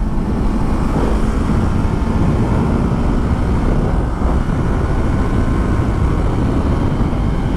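Steady wind rush over a motorcycle rider's microphone, mixed with a 2019 Yamaha R3's parallel-twin engine running at road speed.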